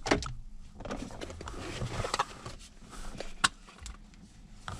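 A new dash cam's cardboard box and packaging being opened by hand: rustling and scraping, with a sharp click at the start and another about three and a half seconds in.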